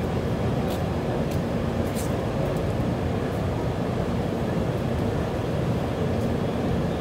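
Steady low rumble and hum of an air-conditioned passenger train standing at the platform, with a few faint clicks about one to two seconds in.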